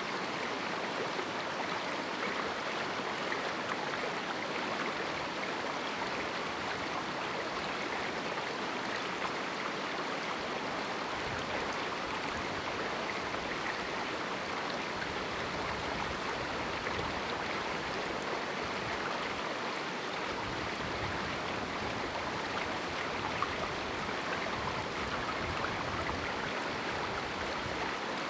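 Steady rushing of a small mountain river flowing through a rocky canyon, an even water noise with a low rumble that swells and eases in the second half.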